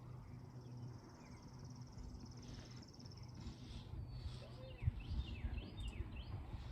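Birds chirping over a low steady rumble. A high, even trill runs for the first three seconds, then a quick series of short falling chirps follows. There is a low thump about five seconds in.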